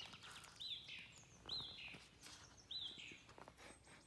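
A bird calling faintly: three short chirps that rise and fall, about a second apart.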